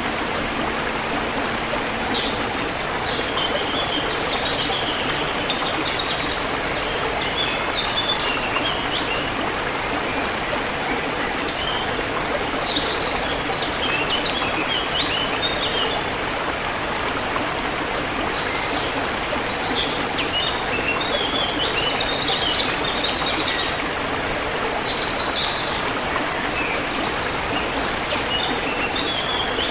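Forest river water flowing steadily, with birds chirping over it in groups of quick high notes every few seconds.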